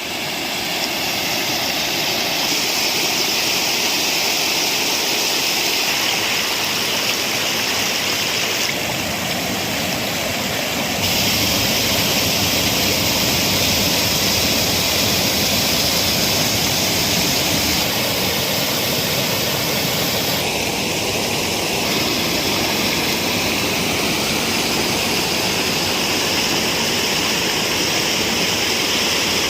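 Rushing water of a hill stream or waterfall: a steady, loud rush that changes tone slightly a few times.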